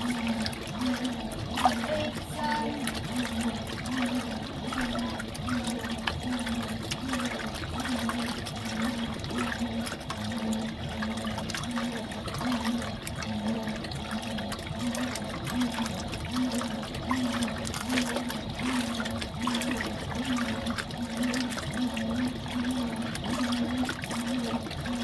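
Fisher & Paykel Smart Drive top-loading washing machine agitating a load, water sloshing in the tub while the motor hum swells and fades in an even rhythm about once a second.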